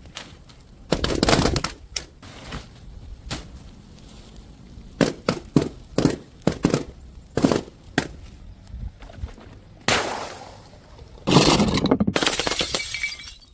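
Glass bottles smashing: a crash about a second in, a quick run of sharp cracks and clinks in the middle, then a short crash and a longer, louder one near the end.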